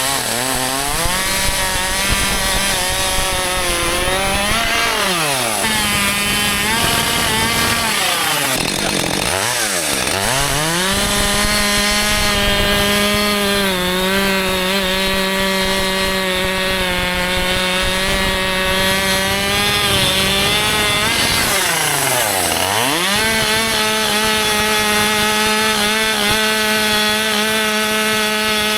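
Husqvarna 564 XP's 62cc two-stroke chainsaw engine running at high revs while cutting wood. Three times the revs drop sharply and climb straight back up, about 5, 10 and 22 seconds in.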